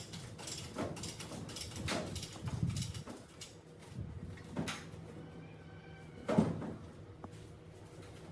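Irregular metal knocks and clanks from work on a rusted truck chassis, with one sharper bang about six seconds in.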